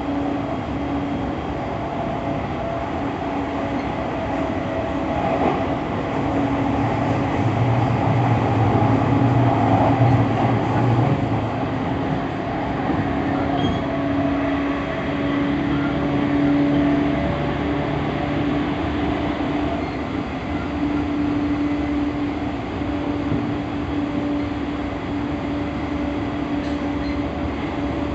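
JR East E231-1000 series electric commuter train running at speed: a steady rumble of wheels on rail with steady humming tones, a little louder about a third of the way in.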